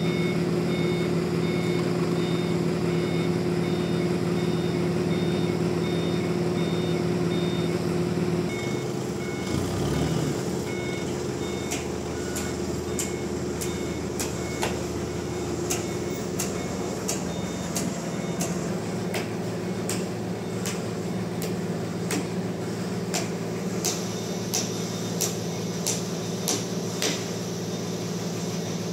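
Heavy machine running steadily with a repeating reversing beep. The hum drops about eight seconds in and the beeping stops partway through, then a run of sharp knocks and clicks follows.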